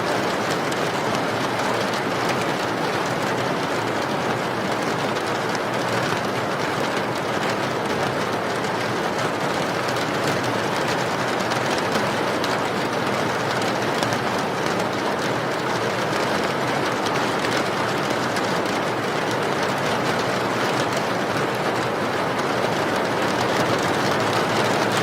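Steady heavy rain, a constant dense hiss of falling water with fine patter throughout.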